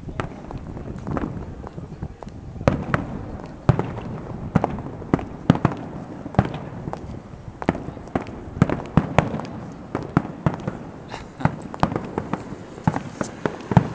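Aerial fireworks going off: a run of sharp bangs and cracks at irregular intervals, about one or two a second.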